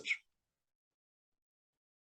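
Near silence: the clipped end of a spoken word, then dead silence.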